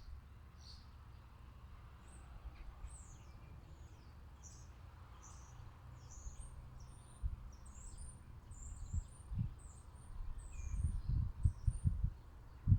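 Small garden birds chirping: many short, high chirps in quick succession. From about seven seconds in, low thuds and rumbles come in, loudest near the end.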